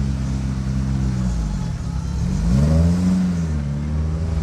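A classic car engine running at idle; its pitch sags, then rises in a brief rev about halfway through before settling back to a steady idle.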